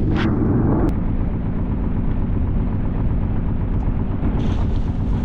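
Sailboat's engine running steadily under way: a continuous low rumble.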